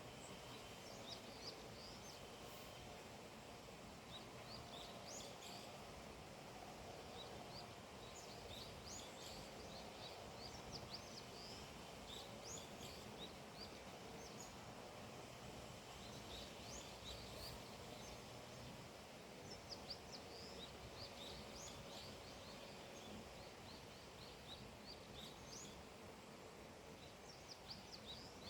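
Faint chorus of small birds chirping, many short high chirps scattered throughout, over a steady low background hum of outdoor ambience.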